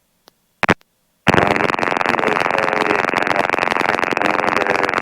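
Headset intercom of an R22 helicopter: after a couple of clicks, a microphone opens about a second in and carries loud, muffled cockpit noise of the engine and rotor. The noise sounds thin and tinny, as through a radio, and cuts off suddenly when the mic closes.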